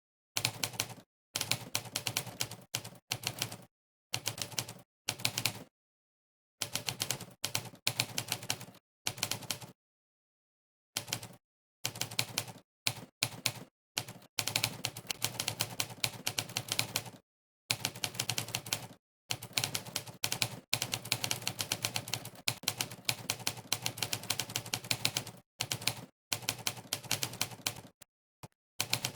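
Monkeytype's typewriter keypress sound effect: quick runs of sharp typewriter key clacks, one per keystroke, broken by short, completely silent pauses, the longest around six and ten seconds in.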